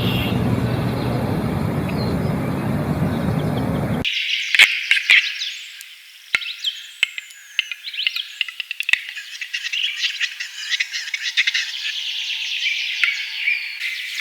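A steady rushing noise for about four seconds, then an abrupt cut to small birds chirping and twittering busily, with scattered clicks.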